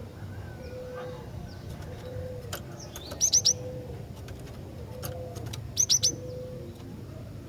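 Female cinereous tit (glatik batu) calling: two quick bursts of three sharp, high chirps, the bursts about two and a half seconds apart.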